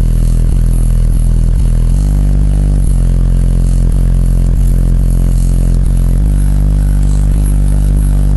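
Bass-heavy music played loud through a car's 15-inch Kicker L7 subwoofer, deep bass notes changing every couple of seconds, with the car's body panels rattling and buzzing along. The owner takes the rattle as the sign that the car needs sound deadener.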